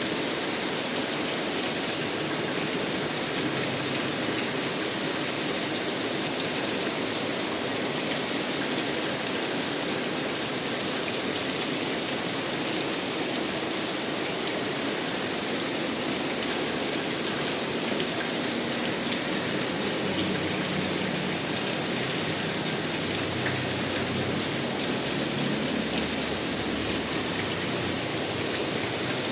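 Steady rainfall, an even hiss of rain with no change in level.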